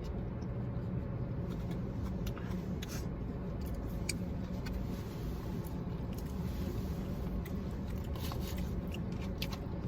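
Steady low hum of a car's idling engine heard inside the cabin, with scattered small clicks and crackles from eating and handling food packaging.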